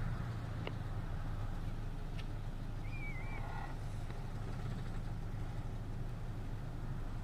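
Steady low engine hum of a vehicle running, with a short warbling chirp about three seconds in.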